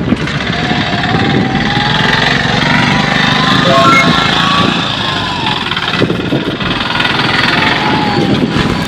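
A small engine running steadily close by, with traffic noise; faint wavering tones rise and fall through the middle.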